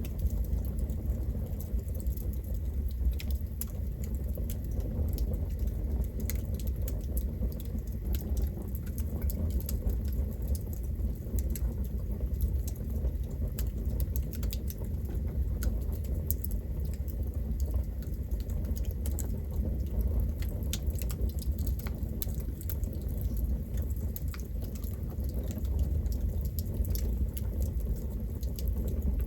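Campfire burning steadily, wood crackling and popping in many small irregular snaps over a low rumble of the flames.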